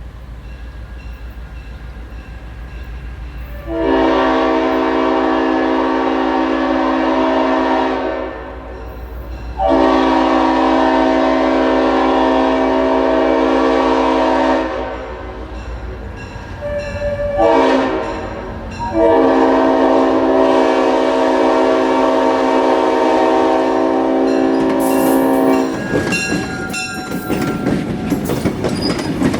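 Leslie RS5T five-chime air horn on a GP38-3 diesel locomotive sounding the grade-crossing pattern: two long blasts, a short one, then a long one. Engine drone comes under the first blasts, and near the end the train rumbles past with wheels clacking over the rail joints.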